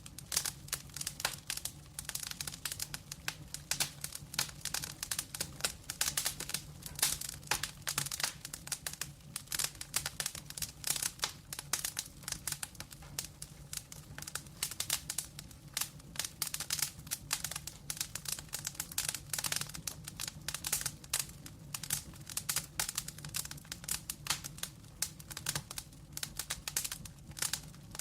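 Wood fire burning, with dense irregular crackling and popping over a faint steady low hum.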